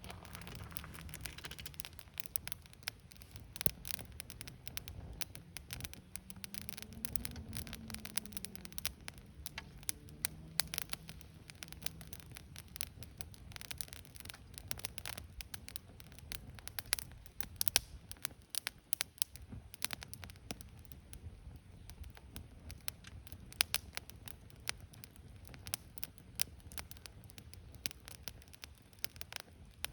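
Wood campfire crackling, with constant irregular sharp pops, a few louder ones in the second half.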